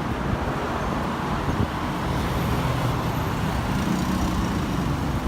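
Steady road-traffic noise: a continuous low rumble of passing or surrounding vehicles.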